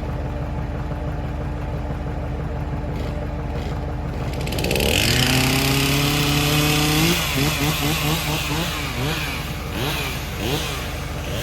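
An engine idles steadily, then is revved up sharply about halfway through and held high. After that it is blipped up and down several times.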